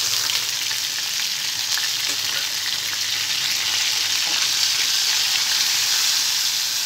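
Onion paste sizzling in hot oil with cumin and mustard seeds in a frying pan, a steady hiss, stirred toward the end.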